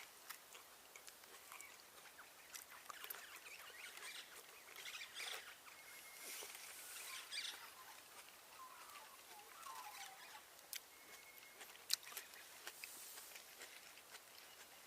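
Faint rustling and scattered light clicks. A few short faint chirps come about two-thirds of the way through.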